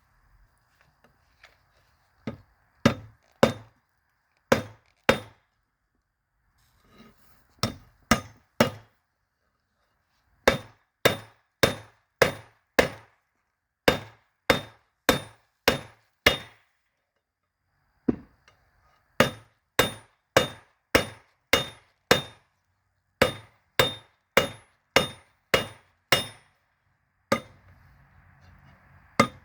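Hammer blows on a hot railroad spike over an anvil, each blow a sharp ringing strike. The blows come about two a second in runs of two to seven with short pauses between, and a faint steady hiss is heard in the gaps.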